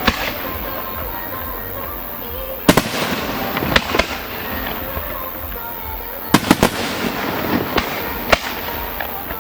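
Aerial fireworks bursting: a sharp bang at the start, more about three and four seconds in, a quick cluster of bangs around six and a half seconds and another near the end, with continuous crackling between them.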